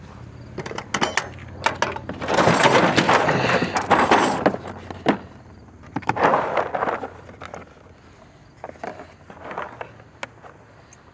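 Clattering and knocking of hand tools and metal parts being handled, in two longer bursts with sharp clicks between them.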